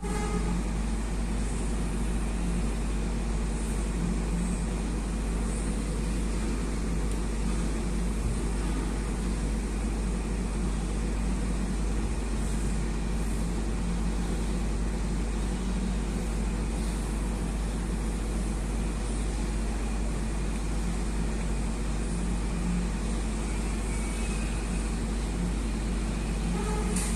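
Heavy off-road dump truck's diesel engine running at a steady pace, a constant low drone with no sharp events.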